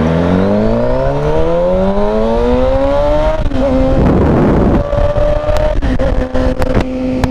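Motorcycle engine catching on a roll start. Its pitch rises smoothly for about three seconds, then it runs at a steady pitch, with a few sharp clicks near the end. The bike is running on a failed stator/regulator and keeps dying after it starts.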